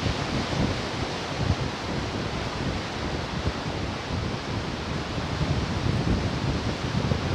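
Ocean surf washing steadily in a continuous rush, with wind buffeting the microphone and adding a fluttering rumble.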